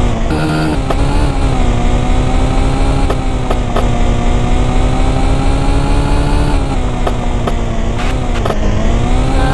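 Small two-stroke moped engine running at steady high revs, its pitch dipping briefly about a second in and again near the end as the throttle eases. A few sharp clicks and a short steady tone about half a second in break through.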